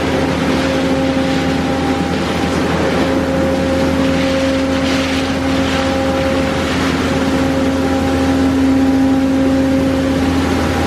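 D&S Odyssey automatic car wash equipment running: a steady machine hum holding a few fixed tones, over a continuous hiss of spraying water that gets brighter for a few seconds midway.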